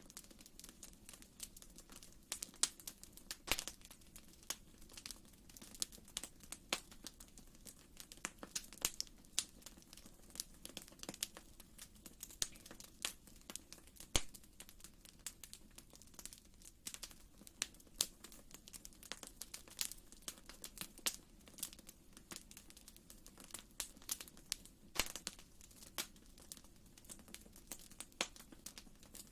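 Wood fire in a fireplace crackling: irregular sharp pops and snaps, several a second, over a low steady background.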